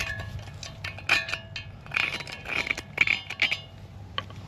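Metal tools and parts being handled: sharp metallic clinks with brief ringing and a few scrapes, over a low steady hum.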